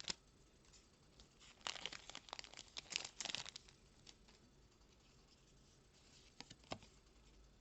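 Short bursts of crinkling and tearing from a foil trading-card booster pack wrapper being handled and opened, about one and a half to three and a half seconds in, then two soft taps near the end.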